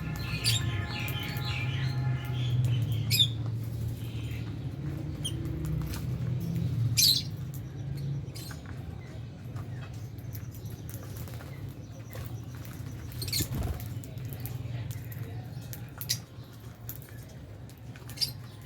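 Lovebirds chirping: short, sharp chirps and clicks scattered throughout, busier in the first few seconds, over a steady low hum.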